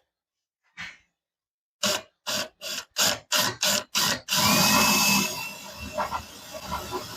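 A handheld power tool run in short bursts, about three a second, then held on continuously and easing off after a second or so.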